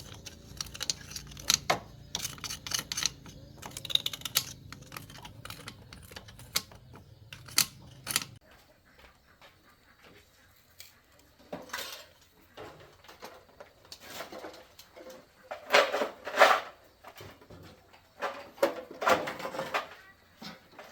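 Small metal parts and hand tools clicking and clattering as they are handled, with a few longer scraping bursts in the second half. A low steady hum stops about eight seconds in.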